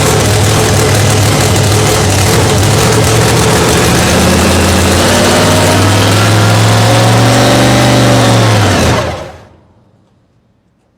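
Engine running loudly and steadily. Its pitch rises a little and eases back, then the sound dies away about nine seconds in.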